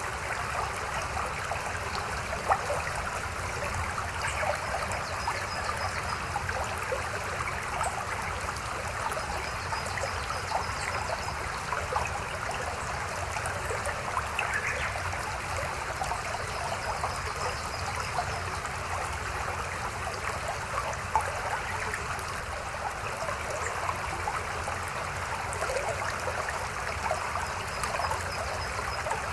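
Shallow stream babbling: a steady rush of running water with many small splashes and gurgles.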